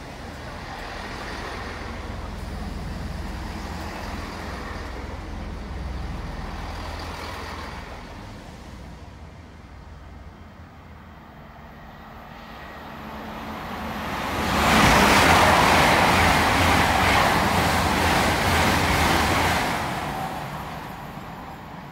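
Pair of GWR Class 802 IET trains passing through at speed: a loud rush of wheels on rail and air that swells about 14 seconds in, holds for several seconds and fades as the train goes away. Before it, the low rumble of another train pulling away dies down.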